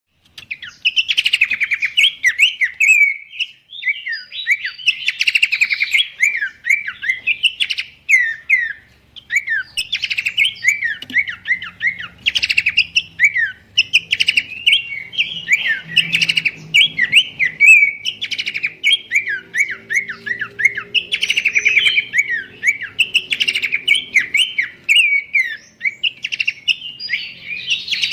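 Pelanduk semak (a babbler) singing: a continuous run of quick, high chirping notes in phrases with brief pauses.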